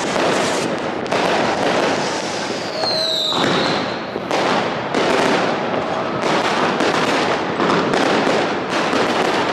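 New Year's Eve fireworks: a dense, unbroken run of bangs and crackles from rockets and firecrackers bursting overhead, with a falling whistle about three seconds in.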